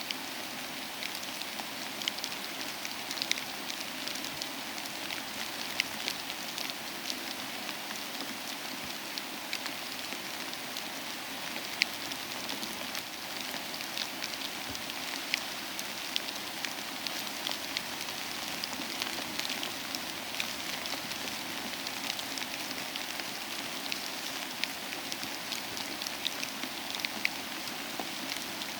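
Steady soft rain mixed with a crackling fireplace, with scattered sharp pops and clicks throughout.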